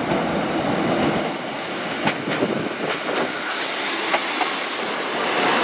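A Class 153 and Class 150 diesel multiple unit running past into the platform: steady wheel and running noise, with a few sharp clicks about two seconds and four seconds in.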